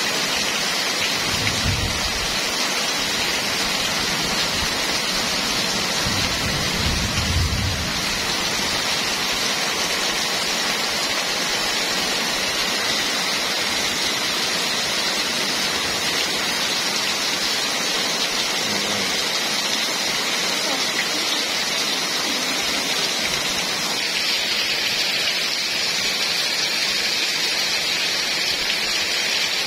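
Heavy rain falling steadily, an even hiss. A brief low rumble comes about two seconds in and a longer one around seven seconds.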